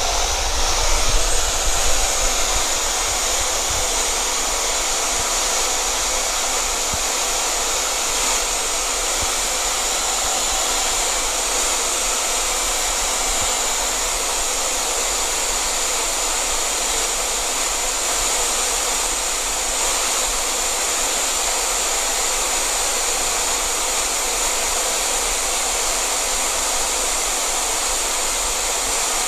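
Hot-air blower running steadily at full blast: an even, loud rush of air with a high whine, heating a graphics card to warm its solder before a tantalum capacitor is replaced.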